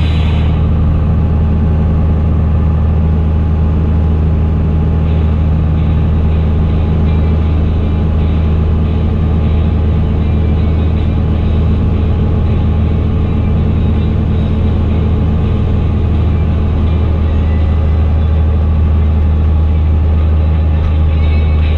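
Fendt Favorit 926 Vario tractor's six-cylinder diesel engine running steadily through an open exhaust, holding an even, loud drone while working.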